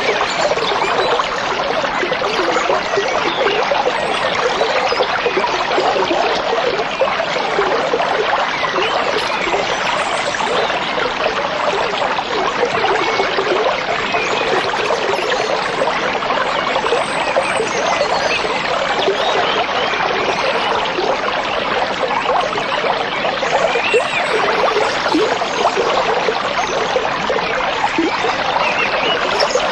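Stream of water flowing and babbling steadily, a dense, even rushing without pauses.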